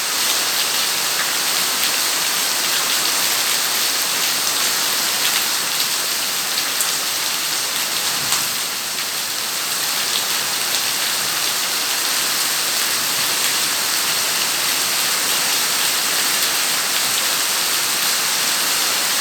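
Rain falling steadily, an even hiss with a few distinct drop ticks scattered through it.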